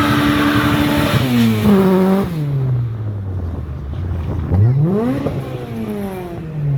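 A car engine being revved. A high rev is held, then drops back with a short blip and settles low. About four and a half seconds in, a second quick rev rises sharply and falls back.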